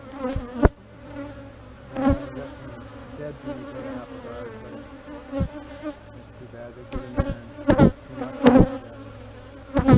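Honey bees buzzing around an opened hive, a steady drone, with several sharp knocks or bumps scattered through it.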